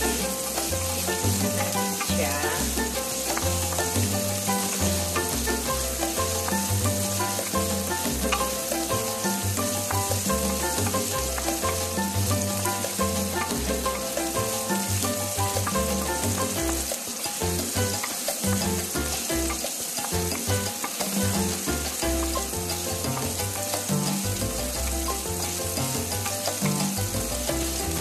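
Meat cubes and chopped garlic sizzling steadily in oil in a nonstick frying pan, stirred and pushed about with a wooden spatula, with background music playing underneath.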